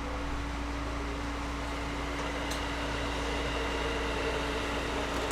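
Cabin ambience of a Series 211-5000 electric train standing still: a steady hum from its onboard equipment and air-conditioning fans, with one constant low tone throughout and a faint click about two and a half seconds in.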